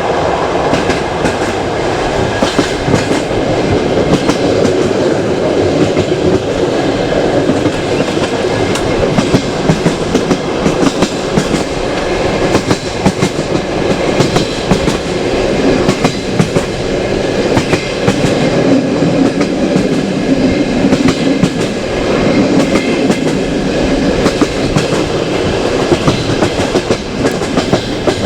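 Passenger train carriage rolling along the track at speed, a steady rumble with the wheels clicking sharply and irregularly over rail joints.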